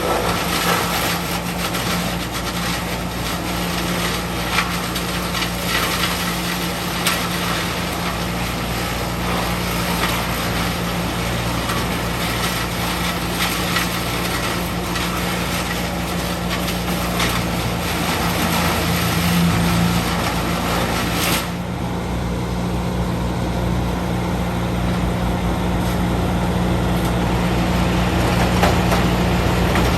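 Heavy diesel equipment engine running steadily, with a loud rough noise on top that cuts back suddenly about two-thirds of the way through while the engine carries on.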